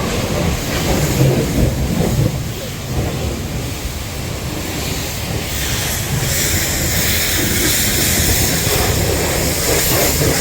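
A steady low rumble, joined about six seconds in by the steady high hiss of a jet-wash pressure-washer spray starting up.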